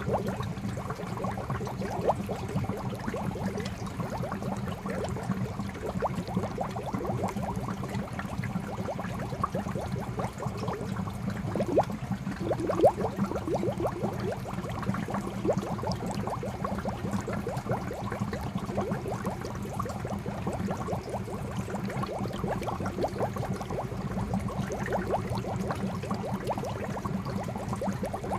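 Fountain water falling into a koi pond: a continuous bubbling patter of many small splashes over a low steady rumble, with a few louder splashes about halfway through.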